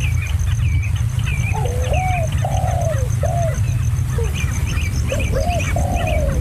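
Birds calling: a string of short hooked chirps, joined about a second and a half in by lower arched call notes, over a steady low rumble.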